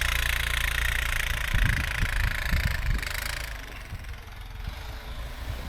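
A four-wheeler's engine running steadily at a low, even note, with a few low thumps about two seconds in. A higher hiss drops away about three and a half seconds in, and the overall sound gets a little quieter.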